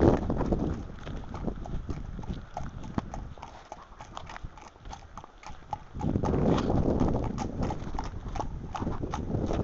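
Horse's hooves clopping in a steady rhythm, with wind buffeting the microphone at the start and again from about six seconds in.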